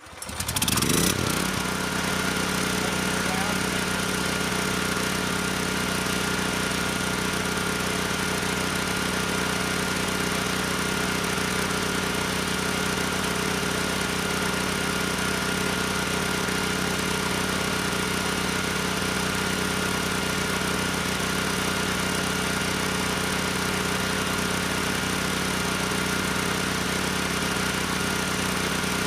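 Sportsman 9000 watt generator's engine started with the key: it catches within about a second, rising quickly to speed, then runs steadily at a constant pitch.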